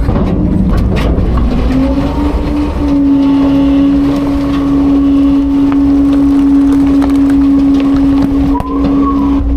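Autocar-Heil Freedom front-load garbage truck running its hydraulics to pack garbage: a steady loud engine-and-pump tone that rises in pitch about two seconds in, then holds steady.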